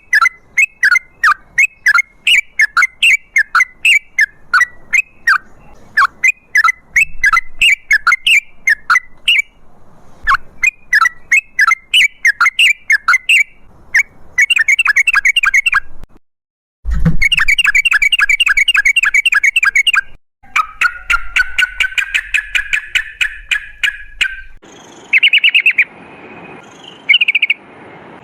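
Yellow-vented bulbul calling in long runs of rapid, repeated chattering notes, with a faster rolling trill after the middle and a few short breaks.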